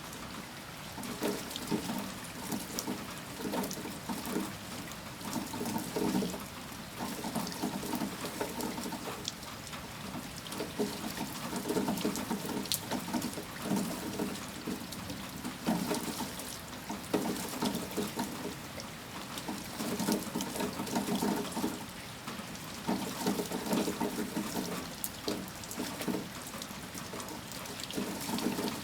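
Heavy rain with water pouring and splashing, swelling and easing every few seconds, and scattered sharp drops.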